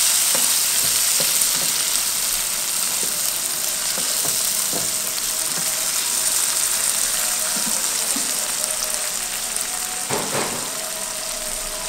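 Minced meat and tomatoes sizzling steadily in oil in a non-stick frying pan, with a spatula stirring and scraping through it, a few small ticks and a sharper knock about ten seconds in.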